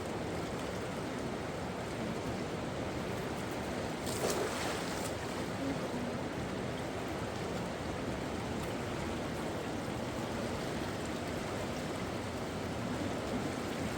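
Steady rush of flowing water from a mountain river or stream, with a brief louder rustle or splash about four seconds in.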